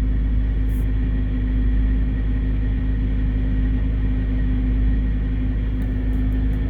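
Isuzu Trooper's engine idling steadily, a constant low rumble with a steady hum.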